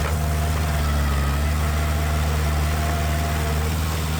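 Heavy diesel engine of earthmoving machinery running steadily at an even, low speed.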